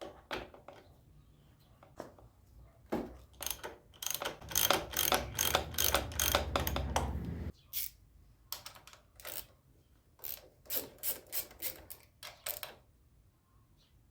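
Socket ratchet wrench clicking in strokes: a dense, fast run of clicks over a low hum in the middle, then a string of separate clicks later.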